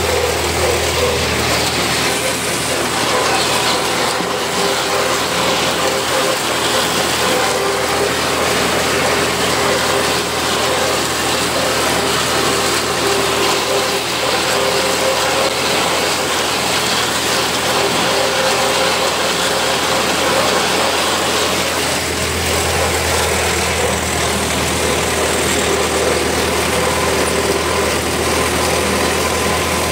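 Tractor engine running steadily under load with the clatter of machinery, heard from inside the cab while mowing hay. Its low drone grows stronger about two-thirds of the way through.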